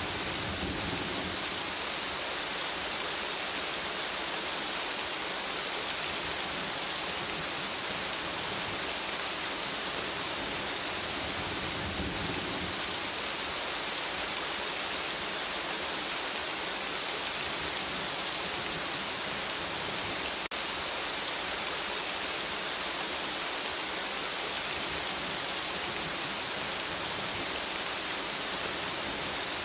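Steady rain falling through a forest, an even hiss of drops on leaves, with a low rumble swelling up a few times. A single sharp click about two-thirds of the way through.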